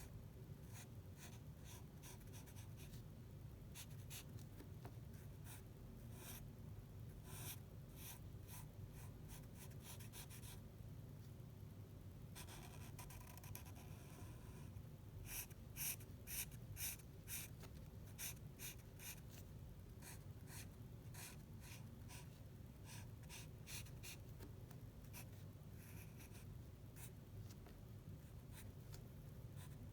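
Drawing strokes on paper: many short, separate strokes, one longer continuous stroke about twelve seconds in, and a quick run of louder strokes around fifteen to seventeen seconds, over a faint steady low hum.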